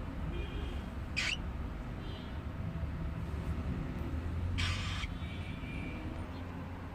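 Stone-curlew (karawan) giving two short, shrill, harsh calls, about a second in and again about four and a half seconds in, with fainter thin whistled notes between, over a steady low rumble.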